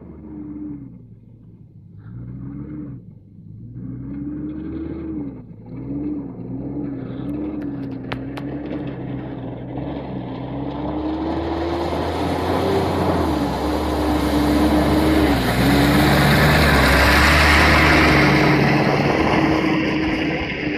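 Mitsubishi Pajero 4x4's engine revving up and down while driving off-road, with a single sharp knock about eight seconds in. From about halfway through, a loud rushing noise builds and peaks near the end, as the tyres churn through mud and water.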